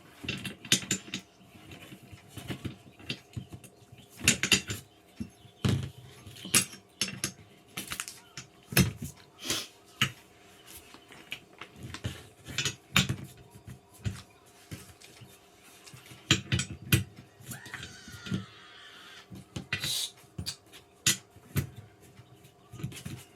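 Irregular knocks, clacks and rattles of gaming-chair parts being handled and pushed together during assembly, with a brief high wavering sound about 18 seconds in.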